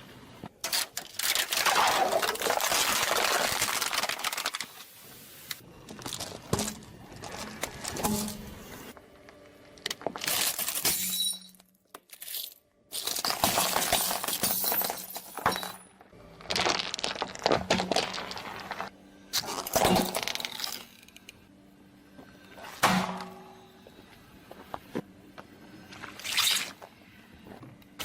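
A car tyre crushing a series of objects: repeated cracking, crunching and breaking, some of it wet and splattering, in separate bursts a few seconds apart with quieter pauses between.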